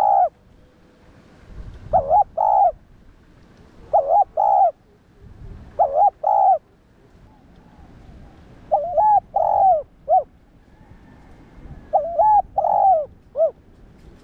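Spotted dove singing its cooing song over and over: six phrases of two or three coos each, coming every two to three seconds, the later phrases ending in an extra short note.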